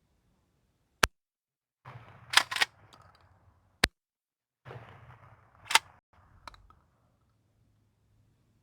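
Two shotgun shots of double-aught buckshot, about three seconds apart. After each one comes a second or so of metallic clattering with sharp clicks, and one last click follows near the end.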